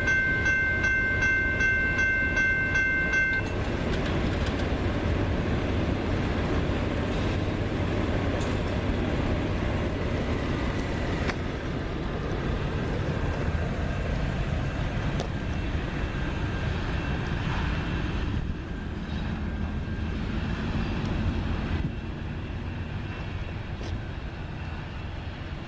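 Freight train rolling past: a steady rumble of locomotives and railcars on the rails that slowly eases off toward the end. A steady high ringing tone stops about three seconds in.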